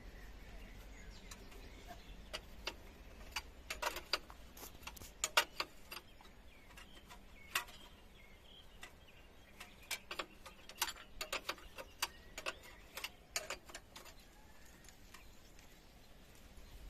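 Scattered sharp metallic clicks and clinks of hand tools on the engine's injector fuel-line fittings, some in quick runs of several clicks, with pauses between.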